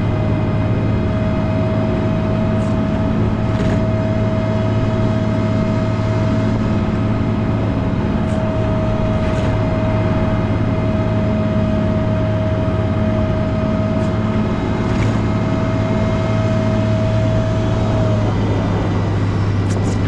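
Volvo L90H wheel loader's diesel engine running steadily under load while plowing snow, with a steady whine over it that stops near the end.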